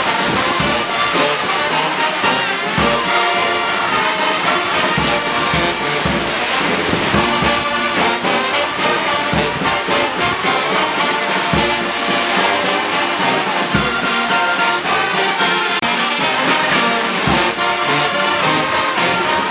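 Brass band music with trombones and trumpets over drum beats, played for a march-past.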